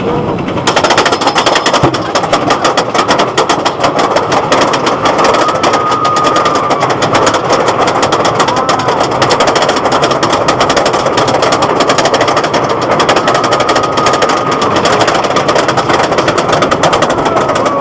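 Rapid, steady mechanical clattering of an RMC roller coaster's train and track, heard from a rider's seat, starting abruptly under a second in.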